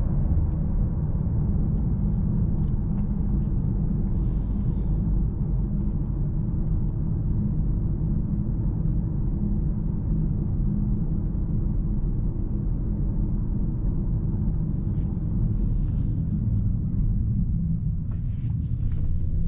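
Steady low rumble inside the cabin of a 2024 Mercedes-AMG S63 sedan cruising along, road and drivetrain noise with no revving.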